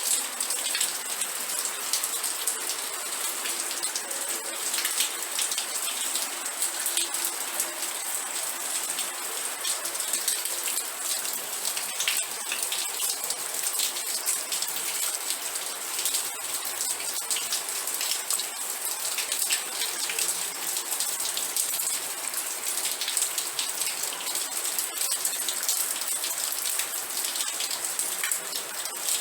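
Steady rain, a dense even hiss of countless small drops striking a surface, holding at one level without let-up.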